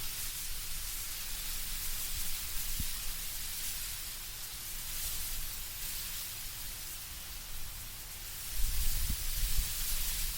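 Wind rustling the leaves of autumn trees: a steady soft hiss, with low gusts of wind swelling in near the end.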